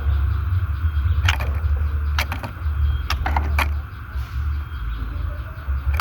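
A white-rumped shama's short, sharp call notes, a few of them about a second in and a cluster between two and four seconds in, over a continuous low rumble.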